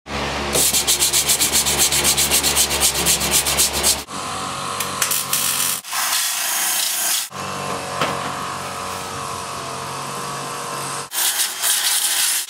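Power tools working on the rusted sheet-metal body of an old pickup truck, in short spliced clips: first a rapid rhythmic cutting or sanding stroke, about eight a second, then steady grinding-like noise with several abrupt cuts.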